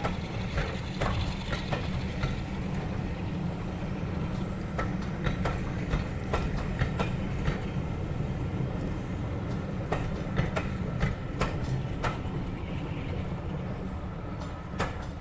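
Train running on the track: a steady low rumble with scattered sharp clicks of wheels over rail joints.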